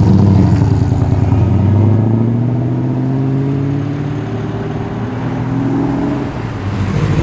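Holden Kingswood station wagon's engine pulling away under acceleration, its pitch rising slowly and steadily for about six seconds before it eases off near the end.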